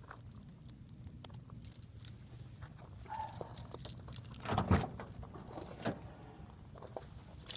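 Keys jangling with small scattered clicks of handling, and one dull thump a little past halfway.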